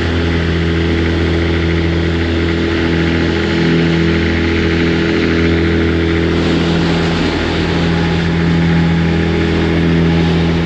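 Vehicle engine running steadily at a constant pitch, with road or wind noise under it.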